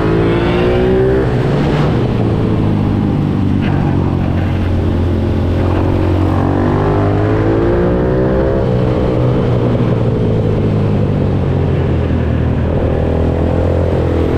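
Pit bike's single-cylinder four-stroke engine revving hard under acceleration, its pitch climbing and then dropping back about a second in, around nine seconds in, and again near the end.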